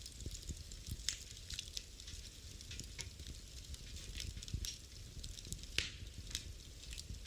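Wood fire crackling in a fireplace: irregular pops and snaps over a low rumble of the flames, with one sharper pop near the end.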